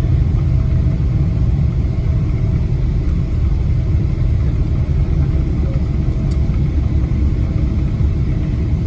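Steady low rumble of cabin noise inside a Boeing 777-200LR airliner, from its engines and airflow.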